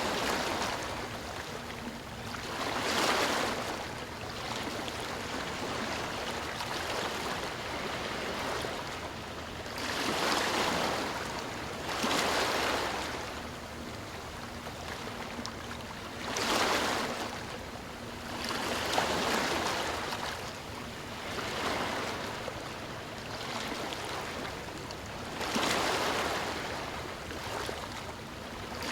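Ocean waves breaking and washing in, one after another: rushing surf noise that swells and ebbs every few seconds.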